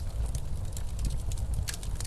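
Snowstorm wind blowing as a steady low rumble, with a log fire crackling over it; a few sharp pops come in the second half.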